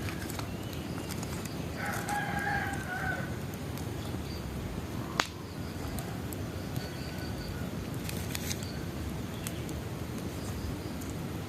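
Bonfire burning with a steady rush and scattered sharp crackles, and one loud pop about five seconds in. A rooster crows once, about two seconds in, lasting a little over a second.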